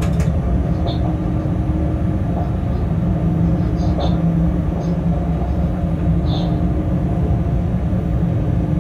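Freight train running at speed, heard from inside the locomotive cab: a steady low rumble of the locomotive and wheels on the rails, with a sharp click near the start and a few short high squeaks.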